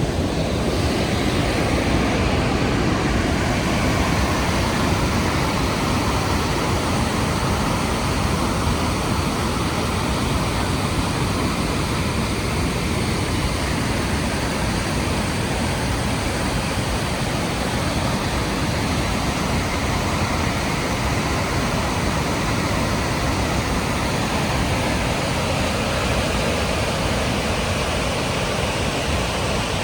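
Rhine Falls waterfall: a loud, steady rush of falling water, an even roar with no breaks.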